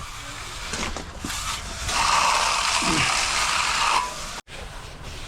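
A steel hand tool scraping along fresh concrete for about two seconds, then stopping abruptly.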